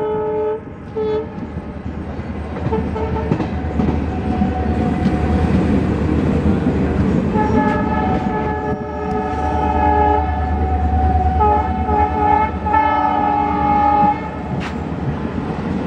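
Express train on Indian Railways running with its locomotive horn sounding: a few short blasts at first, then long blasts with brief breaks from about seven to fourteen seconds in. A low rumble from the train runs under the horn.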